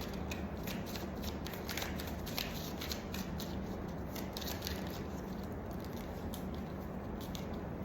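Tarot cards being handled and shuffled: a quick run of light, crisp ticks over the first few seconds, then fewer, over a steady low background hum.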